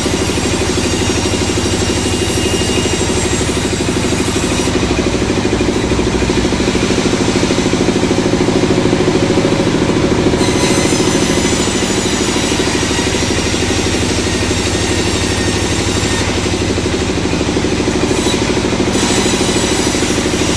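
Sawmill machinery running steadily with an engine-like drone. The high hiss drops away twice for a few seconds.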